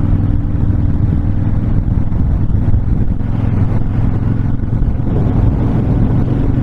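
Honda VTX1300's V-twin engine running at a steady cruising speed, with wind rushing over the microphone.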